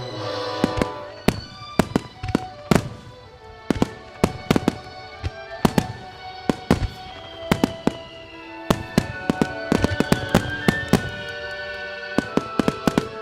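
Starmine fireworks barrage: dozens of sharp shell bursts and launch reports in quick, irregular volleys, with music playing underneath.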